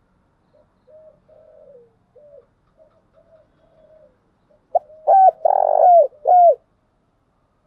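Spotted dove cooing: soft, faint coos through the first half, then a loud phrase of about four coos near the end.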